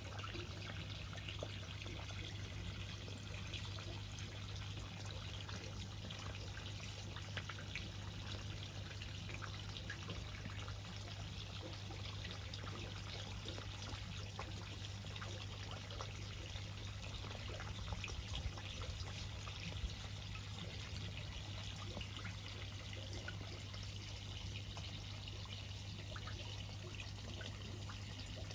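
Water pouring and trickling steadily, with small drips and a steady low hum underneath.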